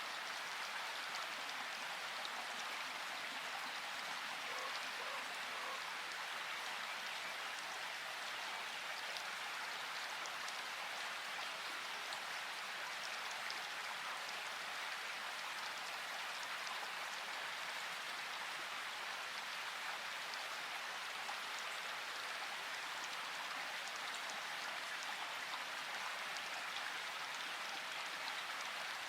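Steady rain falling: an even hiss of many drops, flecked with fine individual drop ticks.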